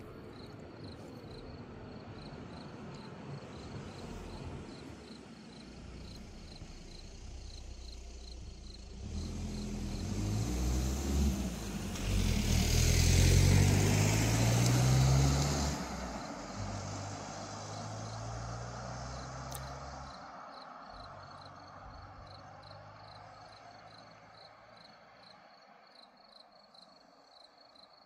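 A car driving past, its engine note and tyre hiss building to a peak about halfway through and then fading away slowly. Crickets chirp steadily throughout.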